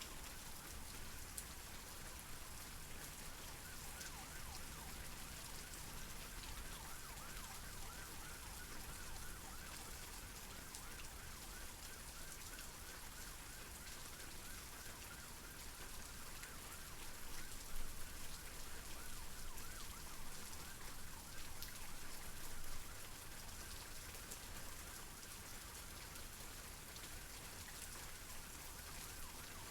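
Steady rain falling, an even hiss of drops. A faint, rapidly repeating warbling sound runs beneath it through much of the first half, and there are a few louder moments in the later part.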